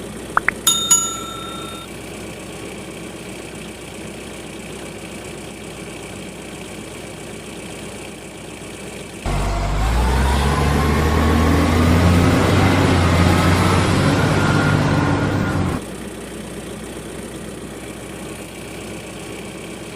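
A truck engine sound cuts in abruptly about nine seconds in and runs for about six seconds with a rising whine, then stops suddenly, over a steady low hum. A short beep sounds right at the start.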